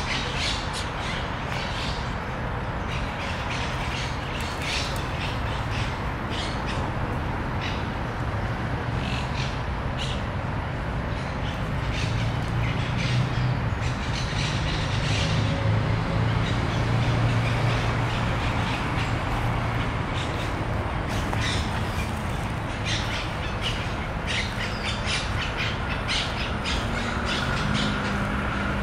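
Birds chirping and squawking in many short calls, over a steady low rumble that swells for several seconds midway.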